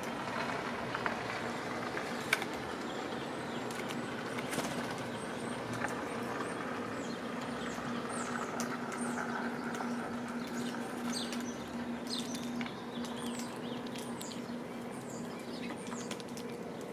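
Small birds chirping at a feeder in many short, high, falling notes, most of them in the second half, over a steady low hum. A few sharp clicks occur early on.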